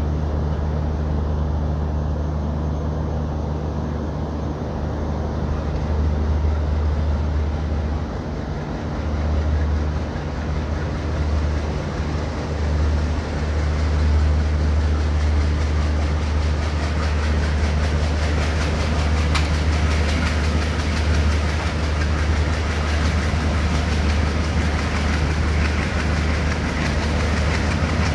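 Twin WDM3D diesel locomotives working hard as they accelerate a train up a gradient: a steady deep engine drone. Wheel and rail noise with clickety-clack grows louder over the second half as speed rises.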